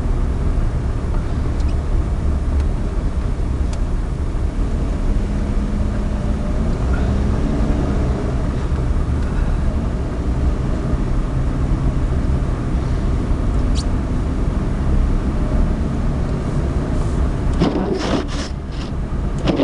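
Suzuki Alto 4WD kei car driving, heard from inside the cabin: a steady three-cylinder engine hum over a heavy low road and tyre rumble, the engine note shifting slightly in the middle. A short burst of clattering near the end.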